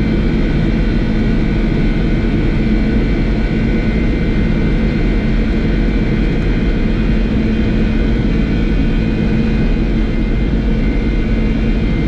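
Boeing 747-400's four turbofan engines at takeoff thrust during the takeoff roll, heard inside the cockpit as a loud, steady drone with a low rumble and a few steady whining tones.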